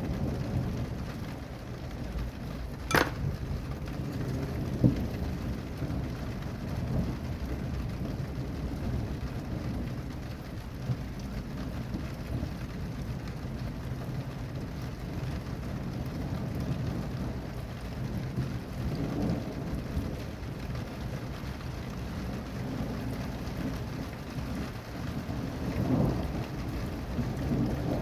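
Steady rain falling, with low thunder rumbling and swelling now and then, most strongly near the end. Two sharp clicks stand out, about three and five seconds in.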